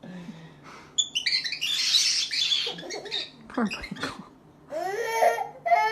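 Pet parrot giving a harsh squawk lasting about two seconds, starting about a second in. Near the end a small child starts to wail and cry.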